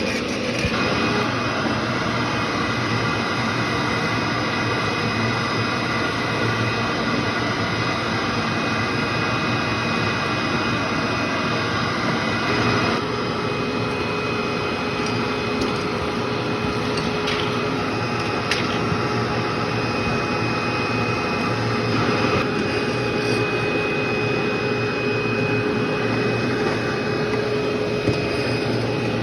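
Vacuum cleaner running steadily over carpet, a constant motor whine over airflow noise. About 13 s in the whine's pitch shifts, and a few brief ticks come through later, like debris being picked up.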